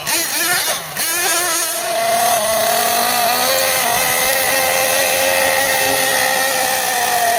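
Small nitro engine of a Team Associated MGT 8.0 RC monster truck, its pitch wavering with the throttle at first, then settling about two seconds in into a steady high-pitched whine at high revs.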